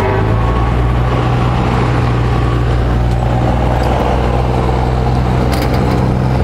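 Car engine running steadily at idle, a constant low hum with no revving.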